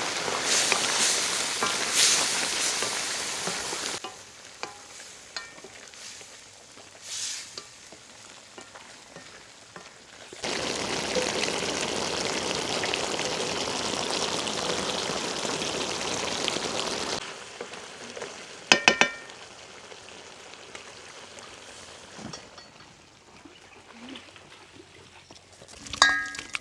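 Food frying in a pan over a wood fire, sizzling in two loud stretches that stop and start abruptly, with quieter gaps between. A few sharp knocks, like utensil taps, come near the end.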